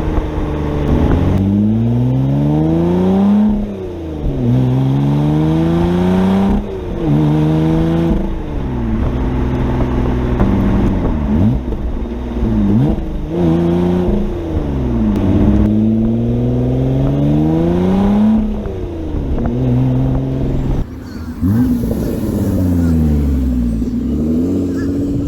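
Lotus Evora's Toyota-sourced 3.5-litre V6 and exhaust accelerating hard through the gears. The pitch climbs over two or three seconds, then drops at each gear change, about eight times, with a few quick dips and rises of revs along the way.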